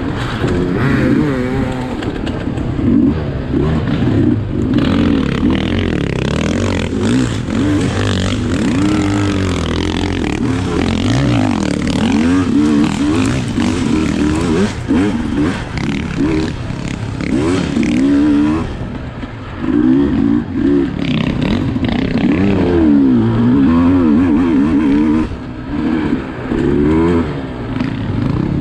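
Sherco SE300 single-cylinder two-stroke enduro motorcycle engine being ridden hard, revving up and down over and over with the pitch rising and falling every second or so. The throttle is briefly shut a couple of times, about two-thirds of the way through and again near the end.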